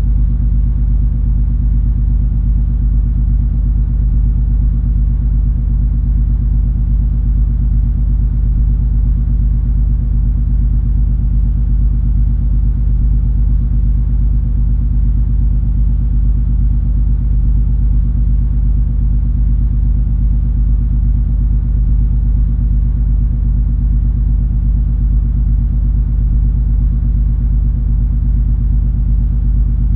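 Steady low rumble and drone of the cruise ferry MS Color Fantasy under way, its engines and hull giving a constant deep hum with a few steady low tones and no change.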